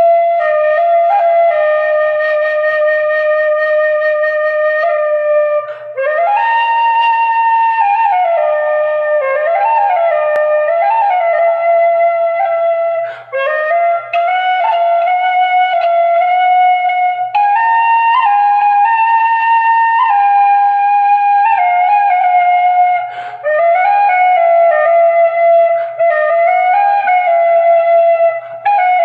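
Irish flute playing a slow solo melody, with sliding notes and ornaments and a few short breaks between phrases.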